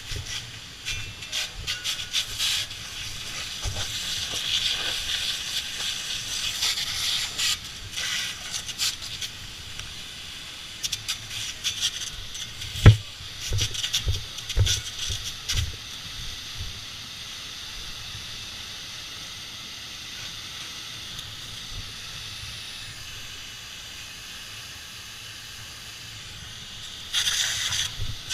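Firefighting hose nozzle spraying water with a loud hiss, surging unevenly in the first half with a few knocks, then running steadier and a little softer, with a brief louder surge near the end.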